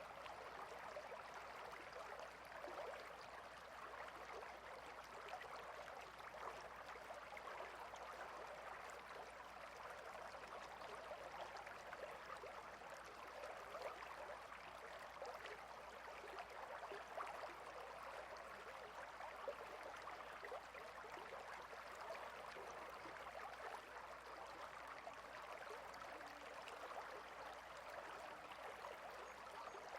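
Small stream flowing steadily: a faint, even rush of running water with fine flickering splashes and no break.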